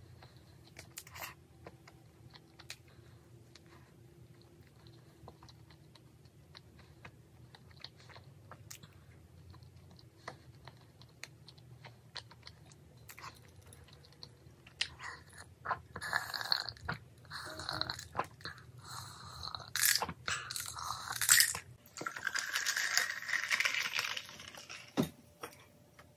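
Close-up eating sounds: a chocolate-coated doughnut being chewed, with soft wet mouth noises and small clicks. About halfway through come louder sips and swallows from a mug.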